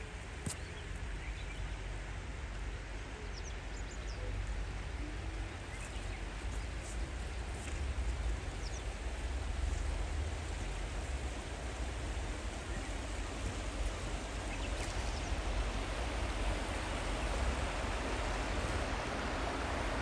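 Steady outdoor rushing noise with low wind rumble on the microphone, growing a little louder toward the end, and a few faint chirps in the first seconds.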